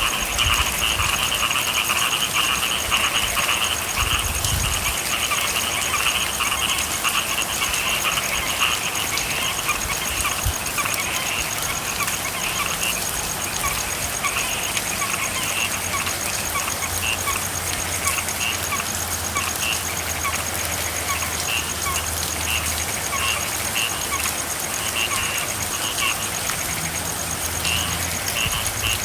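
A chorus of frogs calling over steady falling rain. The chorus is dense at first, then breaks into separate short, repeated calls.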